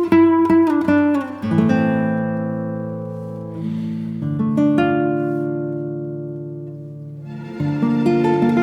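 Background music on acoustic guitar: a few plucked notes, then long ringing notes and chords slowly dying away before steady picking starts again near the end.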